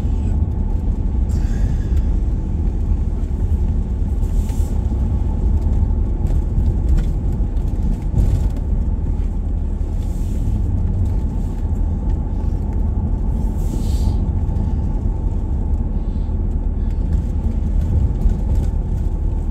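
Steady low rumble of a vehicle driving, engine and tyre noise heard from inside the cabin, with a few faint brief hisses.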